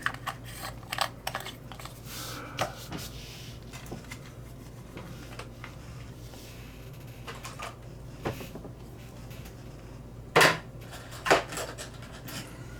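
Small parts and hand tools handled on a workbench while an O-ring is picked out to be cut: scattered light clicks and taps over a faint steady hum, with two louder knocks near the end.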